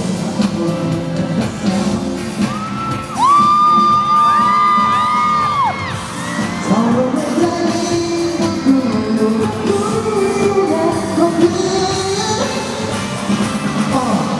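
Live pop concert music with singing, amplified through a large hall. A long high note is held for about three seconds, starting about three seconds in.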